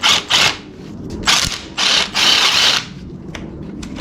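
Power driver run in several short bursts, the longest about two seconds in, backing out the screws of a 1974 Yamaha DT100's clutch-side engine cover.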